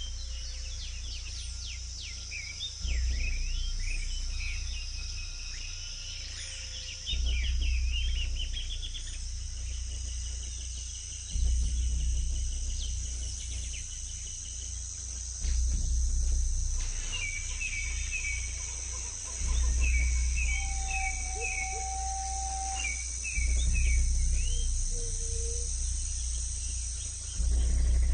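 Tropical forest ambience: a steady high insect drone with scattered chirping bird calls. Under it, a deep low swell recurs about every four seconds.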